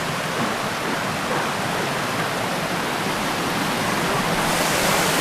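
Waterfall: steady rushing of falling water, brightening and getting a little louder about four and a half seconds in.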